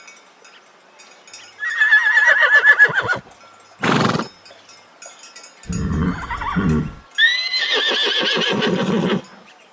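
Horse whinnying twice, each call quavering, the second starting high and falling. Between them come a short sharp burst and a low, pulsing call.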